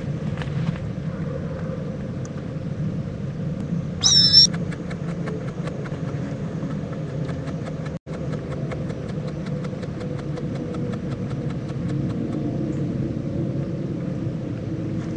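Steady low rumble, with one short high-pitched squeal about four seconds in, followed by a run of faint, rapid, evenly spaced ticks lasting several seconds.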